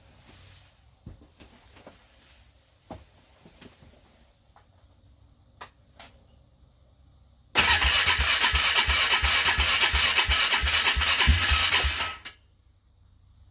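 Car engine cranked over by its starter on a cold start, an even rapid chugging of about five beats a second for about four and a half seconds, stopping abruptly without the engine catching. Faint clicks come before it.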